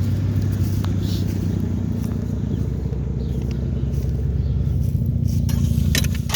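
Car engine idling steadily under a closed hood, a low even hum. A few sharp clicks or knocks near the end.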